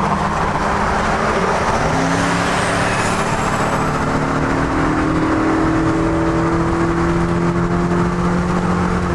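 Turbocharged BMW 330i straight-six under hard acceleration. Its pitch drops about two seconds in, then climbs steadily through a long pull, with a faint high whistle rising briefly just after the drop.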